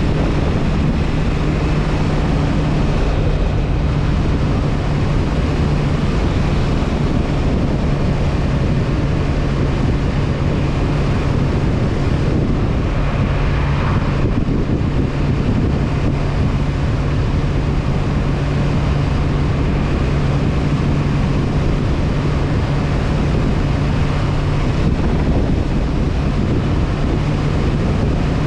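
Honda CB500F's parallel-twin engine running at a steady cruise, holding one even drone, under heavy wind noise on the helmet camera's microphone.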